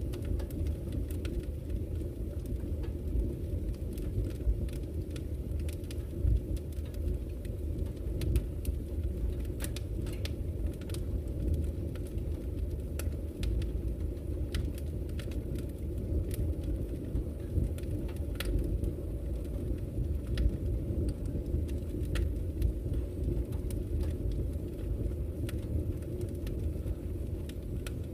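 Wood fire burning in a fireplace, with irregular sharp crackles and pops from the burning logs over a steady low rumble of the flames.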